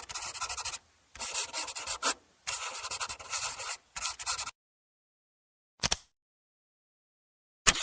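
Rapid scratchy rubbing strokes in four runs, then two short single scratches near the end.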